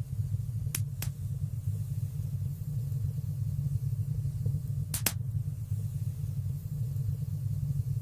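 Wood fire burning in a fireplace: a steady low rumble with three sharp crackling pops, two close together about a second in and one near the middle.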